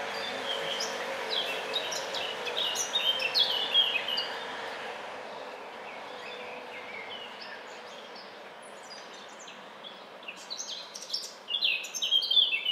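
Small birds chirping and twittering in the trees, in quick clusters of short high notes, busiest in the first few seconds and again near the end, over a steady outdoor background hum.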